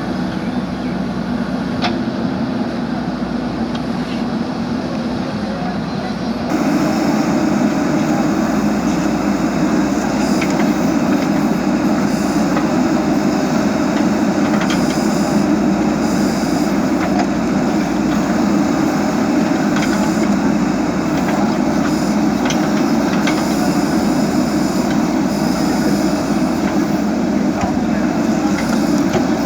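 JCB backhoe loader's diesel engine running steadily under work, stepping up louder about six seconds in as the machine works harder.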